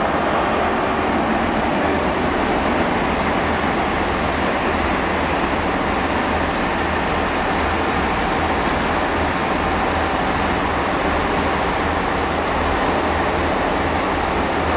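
Class 43 HST train moving past: the power car's diesel engine running with a steady drone and a low pulsing hum, and the Mark 3 coaches' wheels rolling over the rails.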